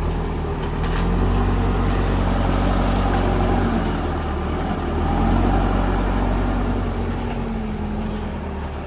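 Backhoe loader's diesel engine running under working load, its pitch rising about a second in and again around five seconds, then easing off near the end.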